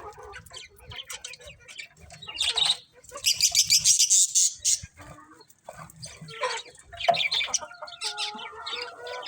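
Budgerigars chirping and chattering, overlapping short calls, with a loud, high-pitched rapid chatter from about three to five seconds in.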